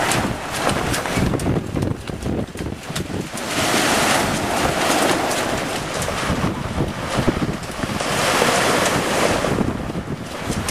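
Strong wind buffeting the microphone over the rush of choppy water and waves, with two louder surges of rushing water in the middle.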